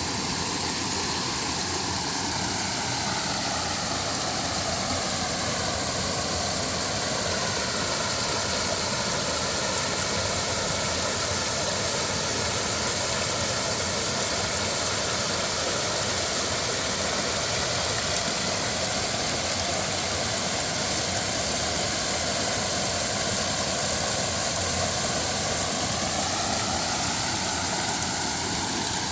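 Waterfall pouring into a mountain stream: a loud, steady rush of falling water.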